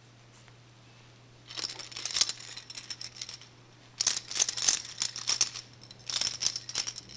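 A baby's rattle toy being shaken, rattling in three bursts of about two seconds each with short pauses between.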